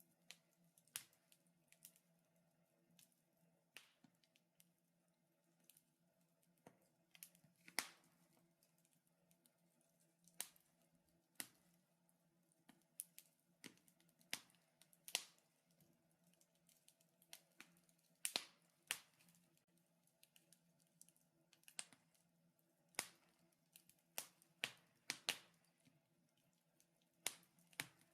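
Wood fire crackling in a fireplace: irregular sharp pops and snaps, about one a second, some louder than others.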